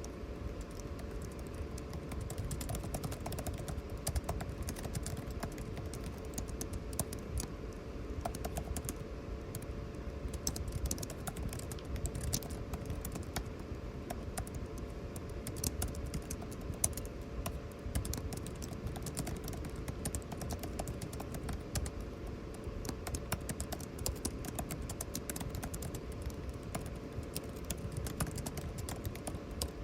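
Typing on a computer keyboard: a continuous run of irregular key clicks over a steady air-conditioning hum.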